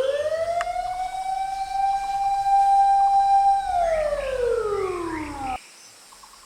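Wailing siren sounding a fire alarm: its pitch rises, holds high for about three seconds, then falls and cuts off suddenly near the end.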